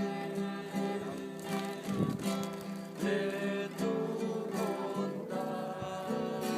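Music: acoustic guitar playing held chords with a steady strum.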